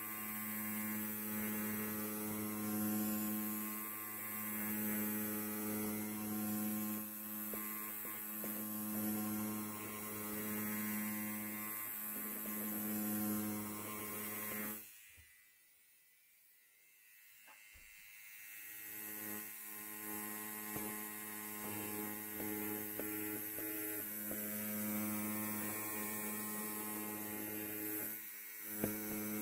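Electric hair trimmer running with a steady buzz. About halfway through it cuts out suddenly for a few seconds, then comes back gradually.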